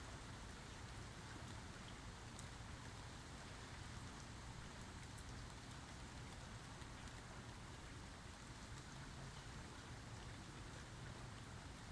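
Steady, quiet rainfall with scattered faint drop ticks over a low steady rumble.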